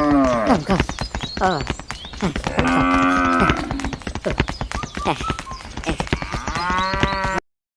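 Cattle mooing: three long calls over a rapid, steady ticking. The sound cuts off abruptly near the end.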